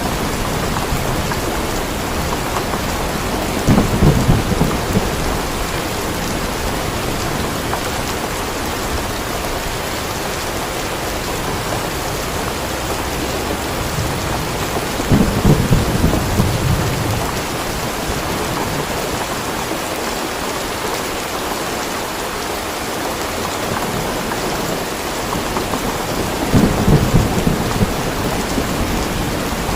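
Steady rain falling, with thunder rumbling three times: about four seconds in, around the middle, and near the end.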